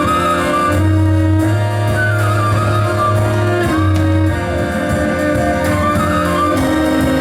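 Live folk-jazz band playing: an ornamented kaval melody over sustained accordion notes and a double bass line.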